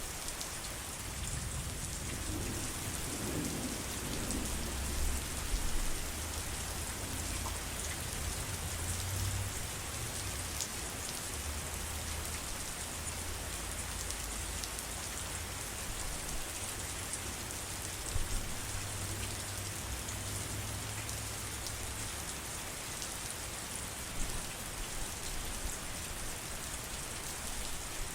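Steady rain pattering, with a low rolling rumble of thunder that starts about a second in and dies away about two-thirds of the way through.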